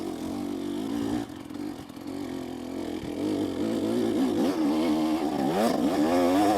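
Two-stroke KTM 250SX dirt bike engine revving up and down with the throttle while climbing a rough trail. Its pitch drops sharply about five seconds in, then climbs again and is loudest near the end.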